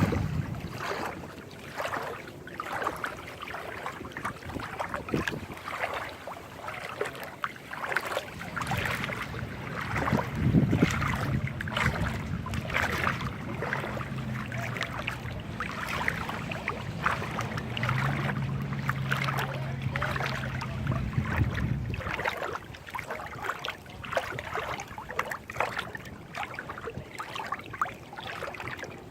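Small waves lapping and splashing at the water's edge. From about nine seconds in to about 22 seconds, a motor drones steadily underneath, stepping up slightly in pitch partway through.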